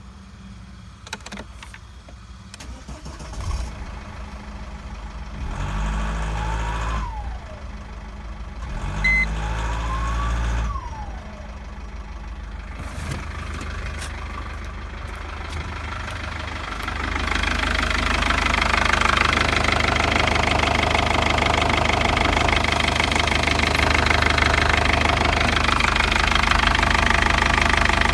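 Mercedes OM668 1.7 CDI four-cylinder common-rail diesel cranked twice on its starter, with a whine rising and falling each time. It catches on the second try and then runs with diesel clatter, getting louder about two thirds of the way in.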